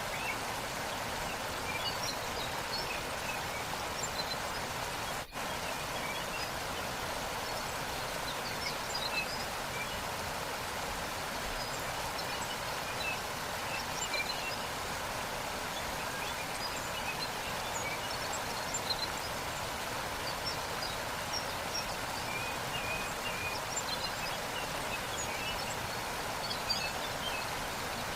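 Waterfall rushing steadily, with faint short bird chirps scattered over it and a momentary dropout about five seconds in.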